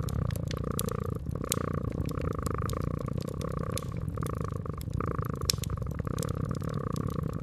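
Domestic cat purring steadily, the purr swelling and easing in cycles about a second long, with a fireplace crackling and popping in short sharp clicks.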